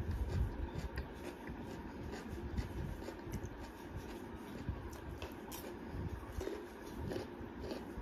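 Close-up mouth noises of someone chewing a piece of asparagus, with scattered small clicks and crunches, over a low background rumble; near the end, fingers scrape and pick food from a metal plate.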